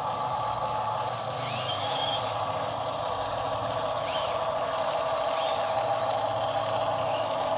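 Small electric motor and plastic gearbox of a toy RC dump truck running with a steady whine.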